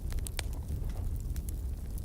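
Wood fire burning in a fireplace: a steady low rumble of flames with scattered sharp crackles and pops, several in quick succession.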